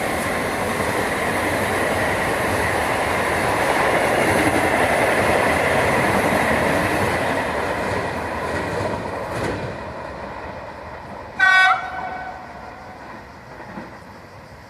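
A train passing, its loud rolling noise fading away after the first several seconds; later a short, loud train horn blast that drops slightly in pitch.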